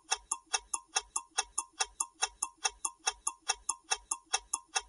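Countdown-timer sound effect: a clock ticking quickly and evenly, about five ticks a second.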